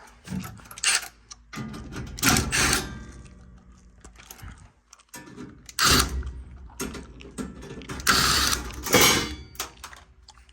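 A driver backing out the screws that hold a bracket inside a gas furnace, in four or so short mechanical bursts a few seconds apart.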